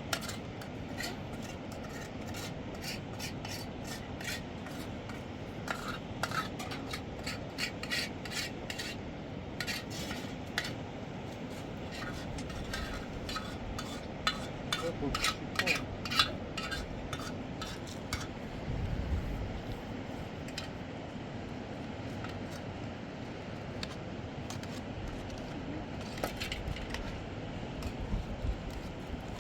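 Irregular clicking and scraping, like a utensil worked against a pot or dish, thick for the first half and again briefly near the end.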